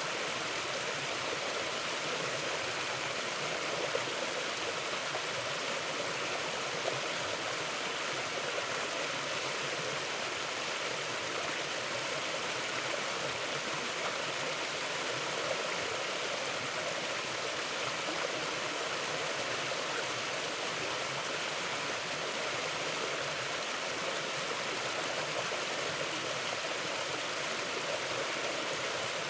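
A stream of water running steadily over rocks, an even rushing noise with no change in strength.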